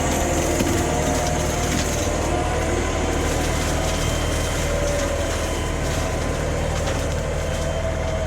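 LS compact tractor's engine running steadily under load, driving a Lane Shark hydraulic rotary cutter that chops through brush with a dense crackling of breaking wood.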